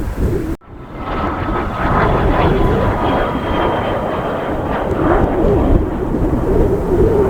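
Fixed-wing aircraft engines running with a steady whine, under heavy wind rumble on the microphone. The sound cuts out briefly just after the start.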